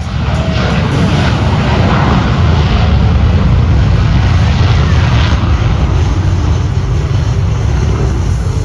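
Boeing EA-18G Growler's twin General Electric F414 jet engines at high power, a loud steady jet noise as the aircraft flies by low, easing a little near the end.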